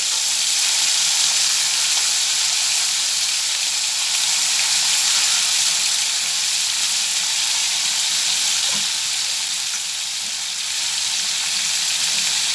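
Thin strips of raw chicken breast sizzling in very hot ghee in a nonstick wok, a steady high-pitched hiss, with a light knock near the end.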